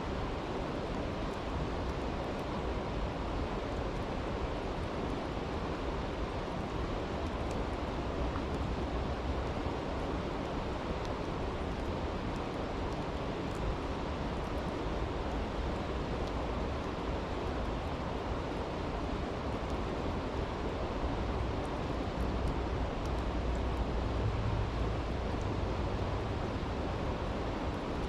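A brook rushing steadily, with faint, sparse crackles from a campfire. A low rumble swells near the end.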